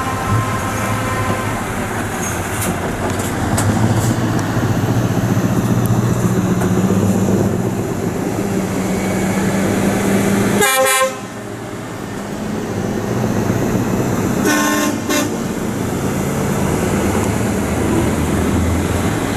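Lorry diesel engines running, with two short air-horn blasts: one a little past halfway, another a few seconds later.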